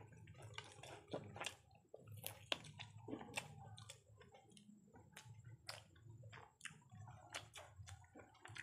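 Faint close-up eating sounds of chicken biryani eaten by hand: chewing with many short, irregular wet mouth clicks.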